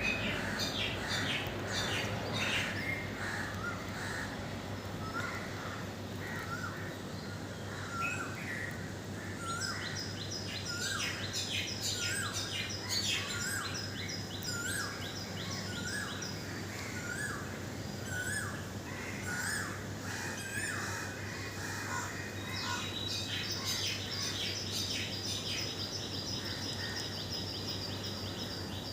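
Several birds singing and chirping together. One repeats a short hooked note about once a second, while higher, fast trilling phrases come in about a third of the way through and again near the end, over a steady low hum.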